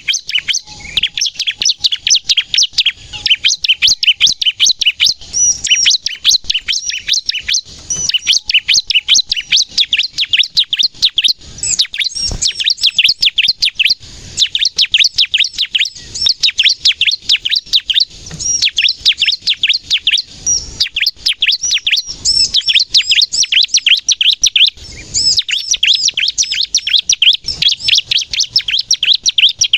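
Bar-winged prinia (ciblek) singing vigorously: long runs of rapid, sharp, high chirps in phrases a few seconds long, separated by brief pauses.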